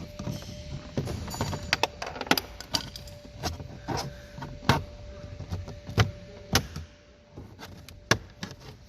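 Plastic car interior trim being pried loose and handled with a spatula: a series of sharp clicks and knocks.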